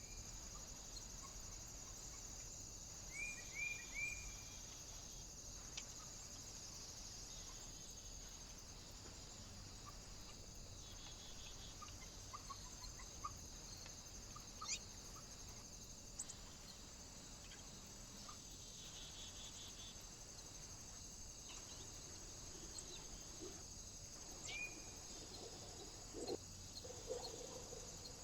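Small birds at a feeder giving short rising chirps, in quick groups of two or three a few times, with scattered faint clicks over a steady high hiss.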